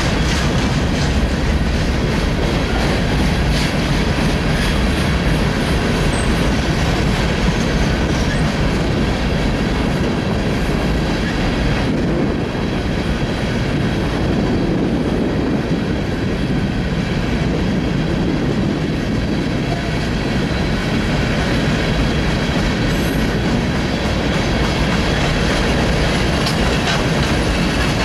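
Loaded freight cars of a rock train rolling past on the rails: a steady rumble, with the wheels clicking over rail joints again and again.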